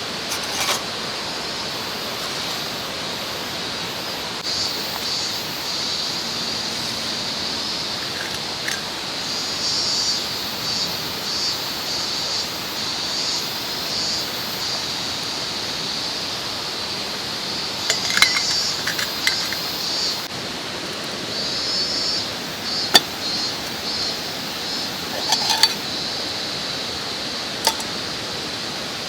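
Steady rush of a mountain stream with insects trilling high and on and off over it, and a few sharp clicks and clinks scattered through.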